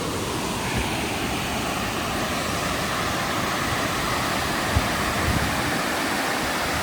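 Rushing water, an even steady noise, with a brief low bump about five seconds in.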